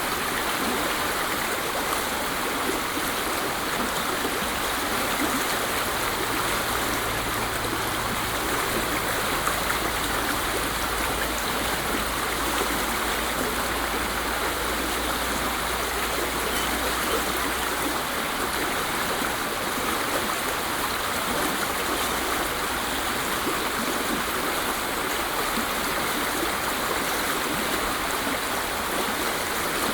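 Waterfall: falling water rushing in a steady, unbroken noise, played as masking sound for tinnitus.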